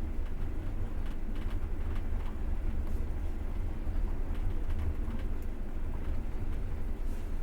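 Passenger train running, heard from inside the carriage: a steady low rumble with faint, irregular clicks and knocks from the wheels and the car.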